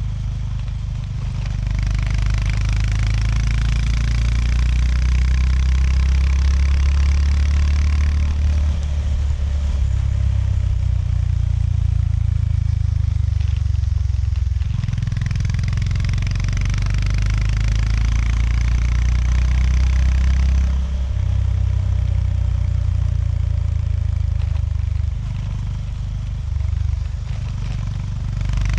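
Honda GB350S single-cylinder engine running under way. It pulls hard twice, about a second in and again around the middle, and eases off in between and for most of the last third.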